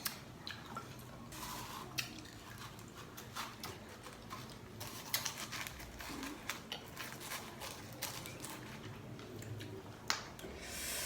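A person eating sour Marian plums close to the microphone: irregular sharp clicks and crunches of biting and chewing the fruit, several a second at times.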